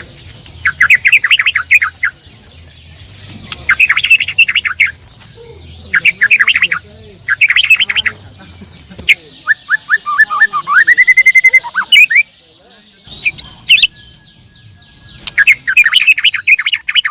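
Songbirds singing: repeated chattering phrases of quick notes, each about a second long, with short pauses between them. Midway there is a run of notes ending in a rising whistle, and a higher whistle follows shortly after.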